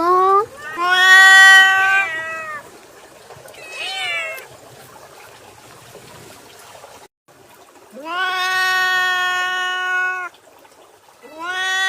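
A series of long, drawn-out animal cries, each rising at the start and then held on one pitch for up to about two seconds, with quieter gaps between them and a shorter wavering cry about four seconds in.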